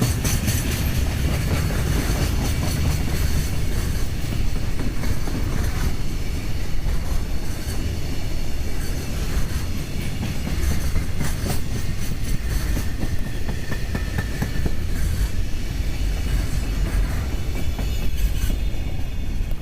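A long freight train passing through a station: a steady rumble of wheels on rail with a rhythmic clickety-clack of wheelsets over rail joints. The sound eases near the end as the last wagons go by.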